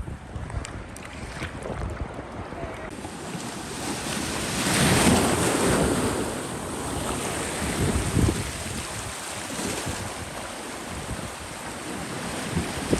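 Ocean surf washing in, swelling to its loudest about five seconds in, with wind buffeting the microphone.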